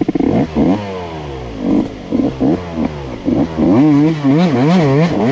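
A 125cc two-stroke dirt bike engine revving hard. It blips up and down in quick rises and falls, then from about four seconds in is held at high revs with a wavering pitch, the throttle kept on to climb a steep rocky trail.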